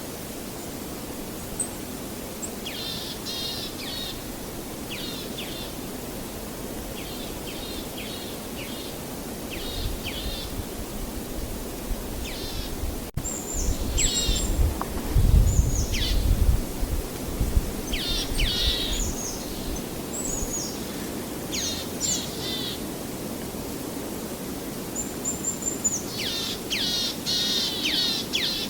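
Small songbirds chirping in quick runs of short, falling notes, busier in the second half, over a steady background rush. A brief low rumble comes about halfway through.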